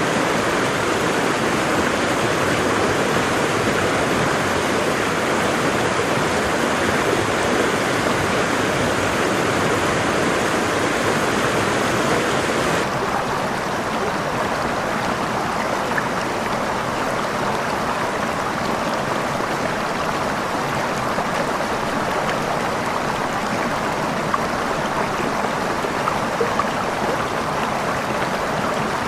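Waterfall: a steady rush of falling water. About thirteen seconds in it changes abruptly to a slightly quieter, duller rush with less hiss.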